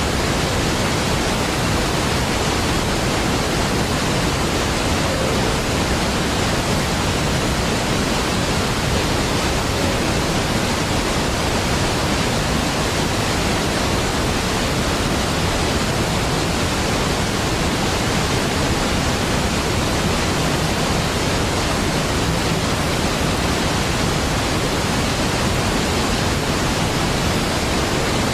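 Steady, unbroken rush of a large waterfall, Niagara Falls, a deep, even roar of falling water with no changes.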